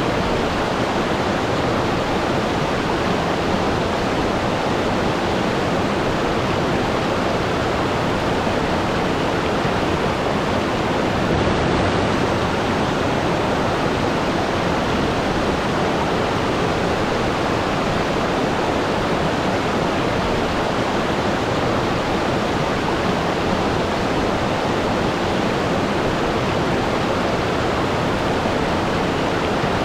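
Waterfall: water falling steadily with an even, unbroken rush.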